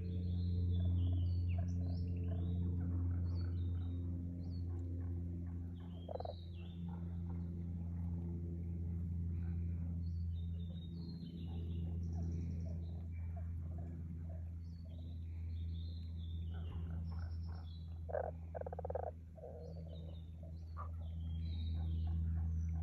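A chorus of frogs calling, heard as a continuous low drone, with small birds chirping over it.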